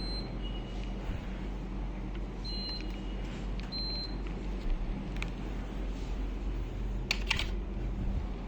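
Air conditioner running with a steady low hum, sounding several short high beeps in the first four seconds. A brief clatter of clicks comes about seven seconds in.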